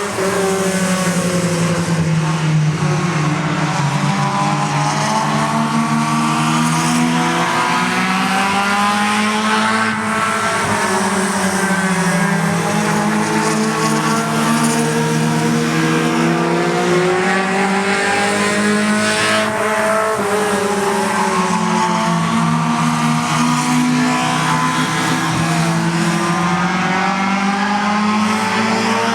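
Several race cars' engines running together around a dirt oval, their pitch rising under power and falling off every few seconds as they lap.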